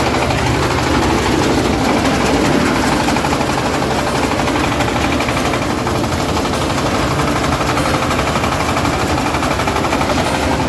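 Heavy farm machine's engine running steadily under load, with a fast, even chugging.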